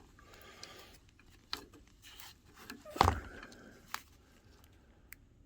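Plastic parts of a projector being handled and worked loose by hand: scattered light clicks and a soft scrape, with the loudest clack about three seconds in.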